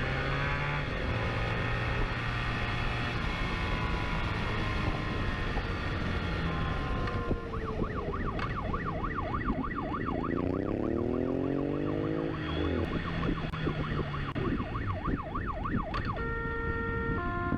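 Police siren in a fast yelp, its pitch rising and falling about three to four times a second, over vehicle engines revving and rising in pitch during a chase. Near the end the siren stops and a few steady held notes take over.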